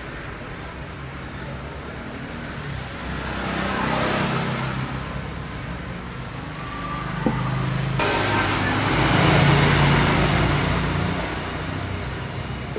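Road traffic: vehicles passing, the noise swelling and fading twice, with a single short click a little after the middle.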